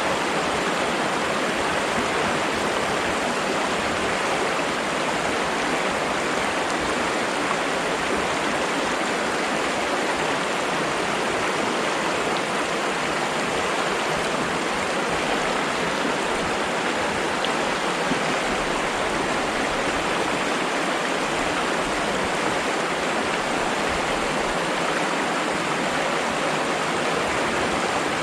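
Flowing water running steadily: an even, unbroken rush of water.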